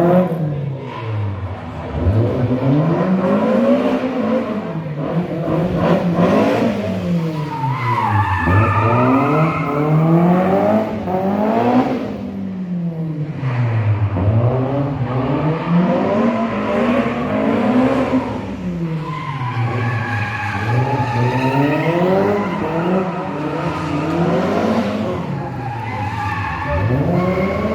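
Rally car engine revving hard and dropping back over and over, its pitch rising and falling every few seconds, with tyres skidding, as the car is thrown through handbrake drifts.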